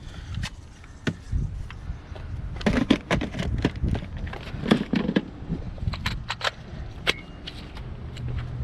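Scattered clicks, knocks and rattles of tools being handled at the car during windshield removal, with a low steady hum coming in near the end.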